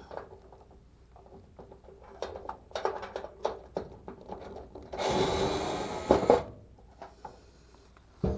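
Hand tool working a screw out of a clothes dryer's sheet-metal panel: scattered clicks, knocks and rubbing, with a longer scraping rush about five seconds in that ends in two sharp knocks.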